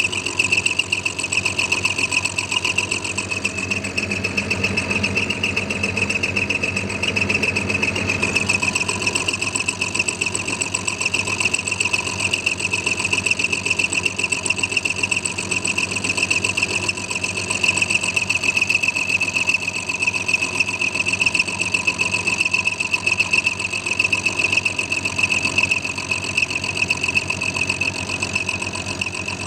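Clarke CL430 metalworking lathe running as a mill, its HSS dovetail cutter taking a steady cut through a mild steel block. The machine noise is continuous and even, with a steady high-pitched tone over it.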